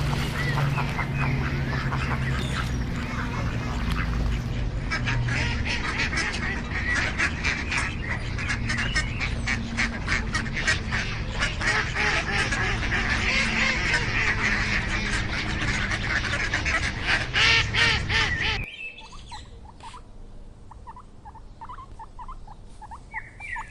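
A flock of birds calling, many short honking calls overlapping densely. The sound cuts off abruptly near the end and gives way to quieter, sparser short chirping calls.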